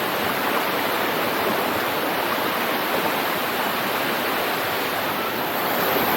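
Water rushing steadily over a waterfall cascade, an even unbroken roar.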